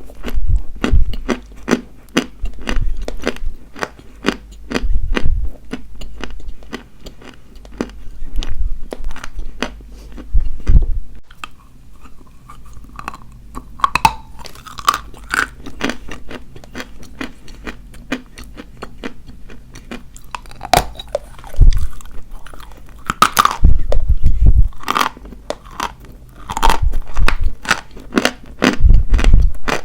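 Dry white chalk being bitten and chewed close to the microphone: a steady run of sharp, crackly crunches, with louder clusters of bites every few seconds.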